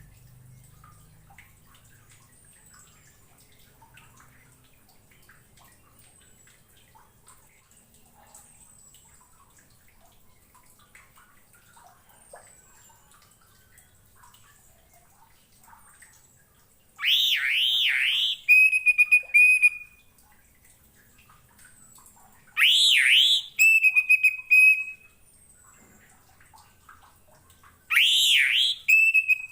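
Orange-headed thrush (anis merah) singing: after a long near-quiet stretch with only faint high chirps, three loud phrases about five seconds apart, each a quick run of rising-and-falling whistled notes ending in a held steady whistle.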